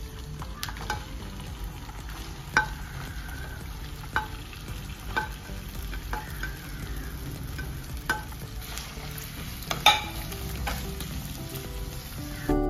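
Chopped ginger sizzling as it fries in hot oil in a non-stick wok. A spatula stirs it, with occasional sharp taps against the plate and pan.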